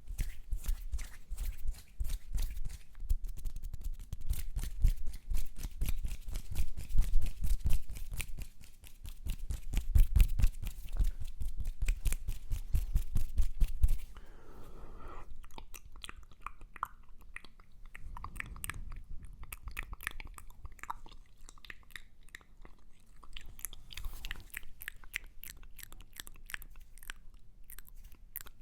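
Close-miked ASMR mouth sounds: rapid wet clicks and smacks, dense and heavy at first, then quieter and sparser from about halfway.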